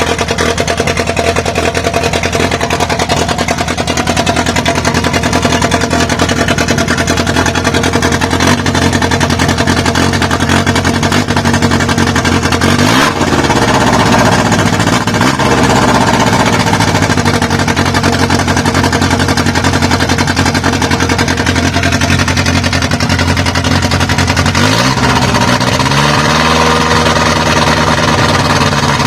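Freshly built Toyota 2E four-cylinder engine with twin Weber DCOE 40 carburettors and a 292 cam, idling and blipped up in revs twice about halfway through and once more near the end, each time dropping back to idle. It is not yet tuned.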